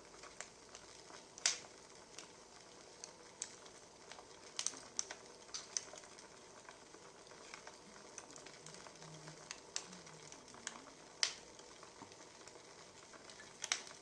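Wood fire crackling: irregular sharp pops and snaps over a soft steady hiss, with two louder pops, one a little over a second in and one about eleven seconds in.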